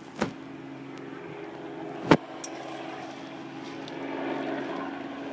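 Helicopter running with a steady, even-pitched drone. Two sharp clicks cut through it, the louder one about two seconds in, and the drone swells slightly later on.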